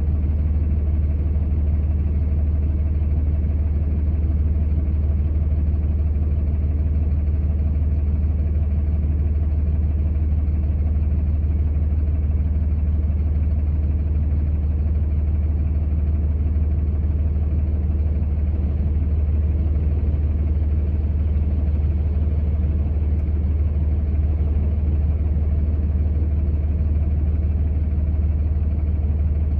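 Vehicle engine running with a steady low drone that does not change.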